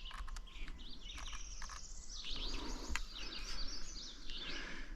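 Several songbirds singing and chirping over one another in a spring chorus, with a few short sharp clicks in among them.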